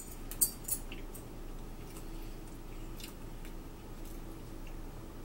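Close-up eating sounds of people chewing soft white-bread ham-and-cheese sandwiches, with a few sharp clicks in the first second and fainter ones later, over a faint steady hum.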